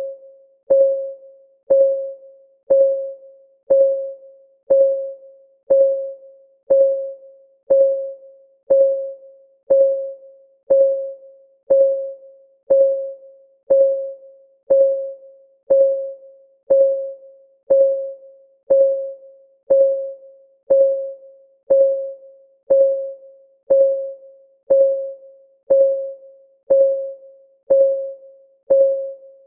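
Countdown timer's clock ticking sound, one tick a second at a steady pace. Each tick is a sharp click with a short ring at one mid pitch that fades before the next.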